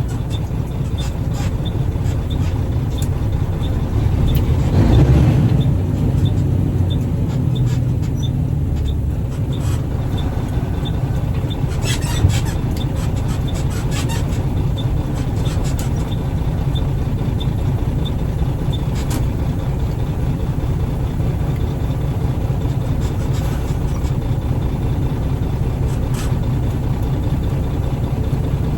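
Triaxle dump truck running on the road with a steady low engine and road rumble that swells briefly about four to six seconds in. A few brief clicks and rattles come around twelve to fourteen seconds in.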